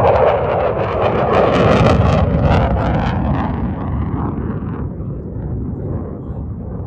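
F-35A Lightning II's F135 jet engine passing and receding. It is loud and rough at first, then fades steadily, and the high part of the sound falls away about four to five seconds in.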